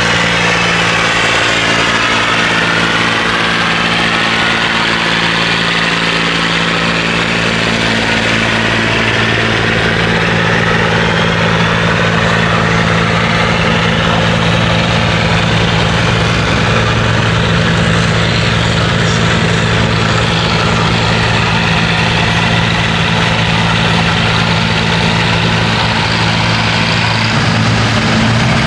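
A tractor-pulling tractor's engine running steadily and loudly, its pitch holding nearly constant, with a slight shift near the end.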